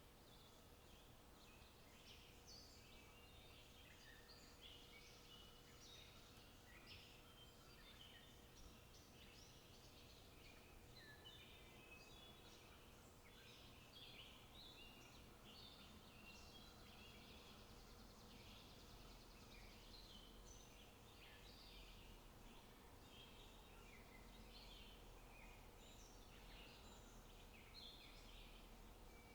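Faint birdsong: many small birds giving short high chirps and song phrases over a soft outdoor hush.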